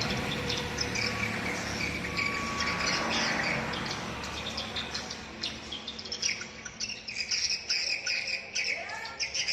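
Swiftlet lure call: rapid, high twittering chirps of edible-nest swiftlets, the kind played to draw swiftlets to a nest house. The chirps come thicker from about halfway in, while a rushing noise fades out over the first few seconds.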